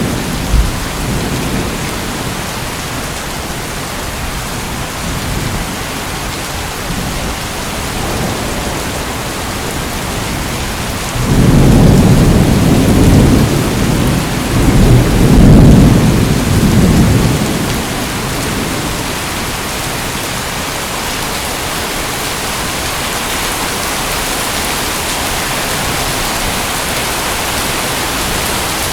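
Steady heavy rain, with a loud, low thunder rumble about eleven seconds in that swells twice and fades over some six seconds; the tail of an earlier rumble dies away at the start.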